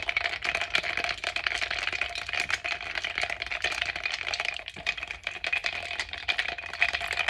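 Fizzing cola and ice in a cup, with a dense, rapid crackling and rattling throughout.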